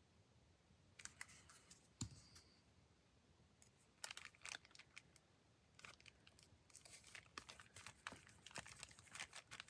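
Faint rustling and crinkling of paper and cardstock being handled, with small irregular clicks and taps, busier in the second half.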